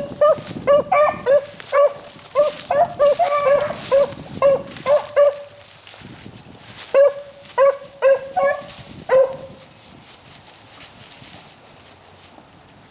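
Beagle hound baying: a fast run of short, high yelping barks, two or three a second, pausing briefly and starting again before stopping about nine seconds in.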